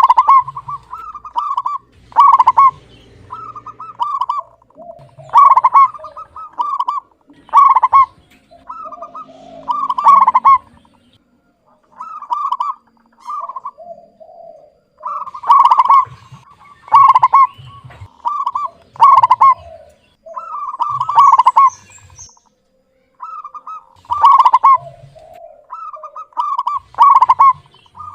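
Zebra dove (perkutut) cooing: short, loud phrases of rolling coos, repeated every second or so with brief pauses, with lower notes mixed in between.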